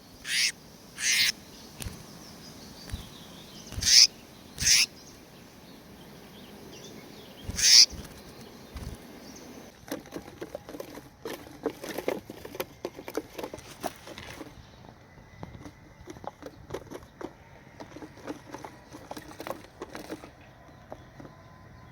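A small bird flapping its wings in five short, sharp flurries, then a longer stretch of rustling and light clicking that thins out in the second half.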